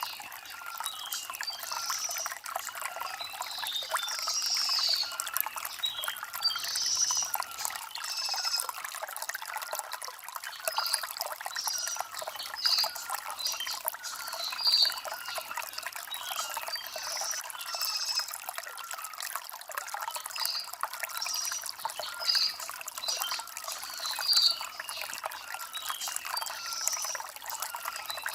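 Shallow stream trickling and splashing over stones in a steady hiss, with birds chirping every second or two over it.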